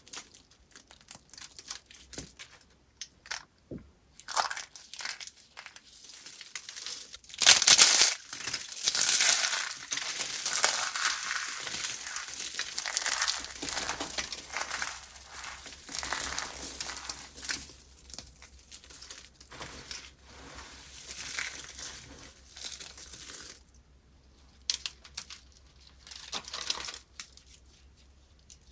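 Dry, brittle soap being crushed: crisp crunching and crackling. Scattered crackles build to a dense, loud run of crunching a quarter of the way in, then thin out to sparse crackles near the end.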